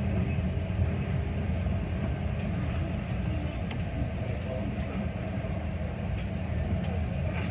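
Steady low rumble of a Metra commuter train, heard from aboard the train.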